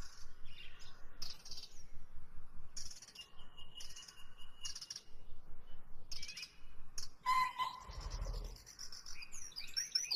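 Small birds chirping in repeated short high bursts, with a dull low thump about eight seconds in.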